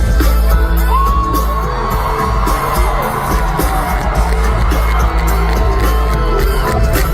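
Loud live pop music with heavy bass and a steady beat, a long held sung or synth note over it, and a crowd cheering and whooping.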